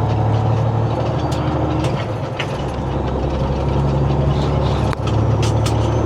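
Semi truck's diesel engine running steadily as the truck gets under way. Its pitch shifts about two and a half seconds in, and there is a brief dip with a click about five seconds in.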